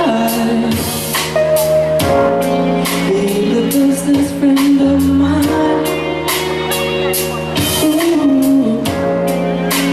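A male pop singer singing a ballad over band music with a steady drum beat.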